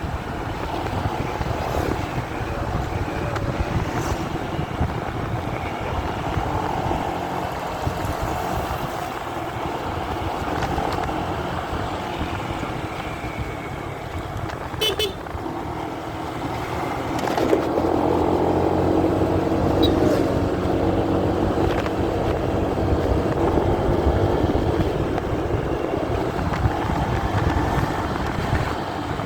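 Motorcycle riding noise, engine and road rumble picked up by a phone carried in the rider's pocket, with passing traffic; a droning engine tone gets louder a little past halfway.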